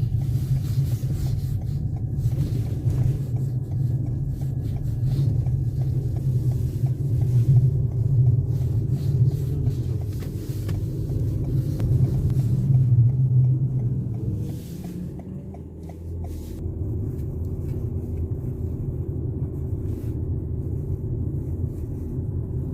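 Steady low rumble of a running motor, easing quieter for a couple of seconds past the middle and then steady again.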